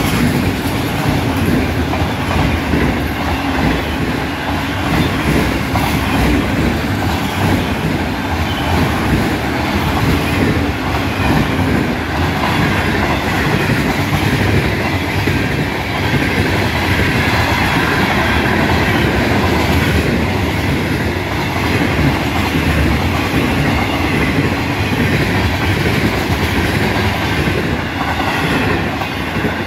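Florida East Coast Railway mixed freight train rolling past at close range: autoracks, a tank car and intermodal flatcars. Its steel wheels rumble and clatter on the rails, loud and steady, with no let-up as car after car goes by.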